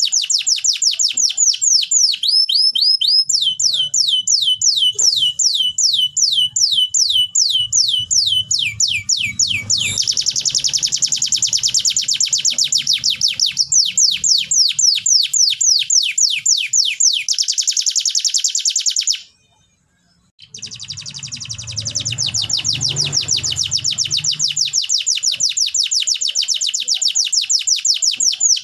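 Domestic canary singing: long, fast trills of repeated sweeping notes, switching from one trill type to the next every few seconds, with a break of about a second a little past the middle.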